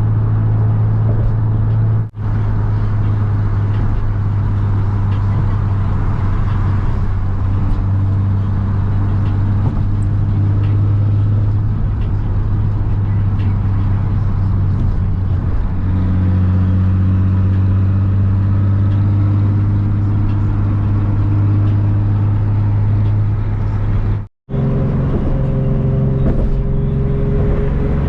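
Steady low drone of a car's engine and road noise heard from inside the cabin while cruising on a highway, its pitch shifting slightly a couple of times.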